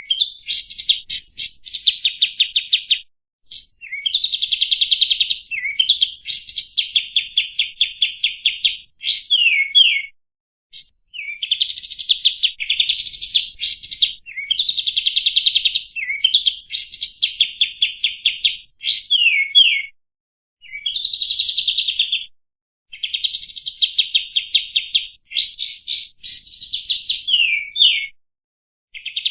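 Kapas tembak songbird singing: loud, repeated phrases of fast chattering trills mixed with sharp rising and falling whistled notes, each phrase lasting two to three seconds with short pauses between.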